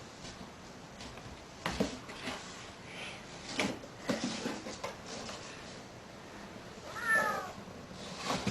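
A cat meows once, about seven seconds in, among a few faint knocks and taps.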